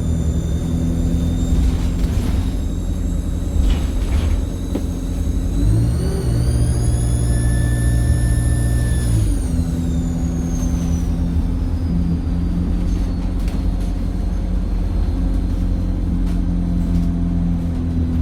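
Alexander Dennis Enviro 200 bus engine running, its turbocharger giving a loud high whistle. The whistle rises as the engine pulls harder about six seconds in, holds for a few seconds, then winds down as the engine eases off.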